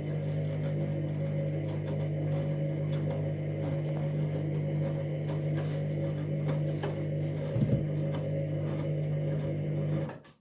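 Candy washing machine running with a steady motor hum and faint clicks, with a brief louder bump about three-quarters of the way through, before it cuts off suddenly near the end.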